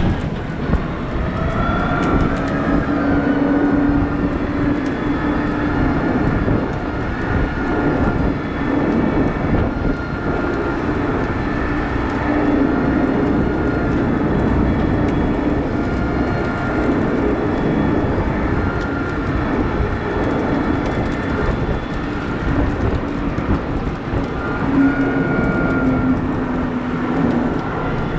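Cat 972M XE wheel loader working, its diesel engine running under load with a heavy rumble. Whining tones rise and fade every several seconds as it works.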